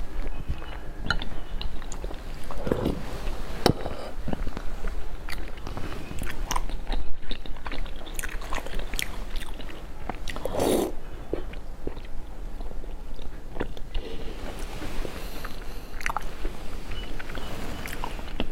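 Close-miked eating: biting and chewing with many small mouth clicks and smacks, and a few louder mouth sounds.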